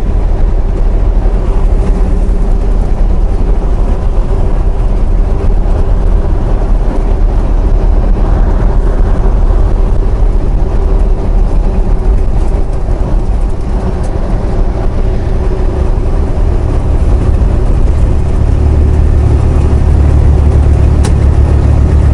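Semi truck's diesel engine and road noise heard from inside the cab while cruising on the highway: a steady low drone with a constant hum, the low rumble growing louder about three-quarters of the way through.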